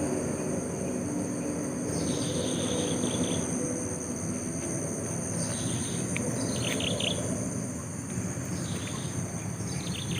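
Birds chirping in short bursts, about three groups of calls, over a steady high-pitched trill of crickets and a constant low background rumble.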